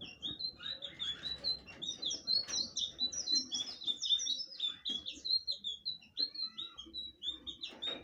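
Sikatan biru (blue flycatcher) singing a fast, continuous song of short, high, sliding notes, which breaks off near the end.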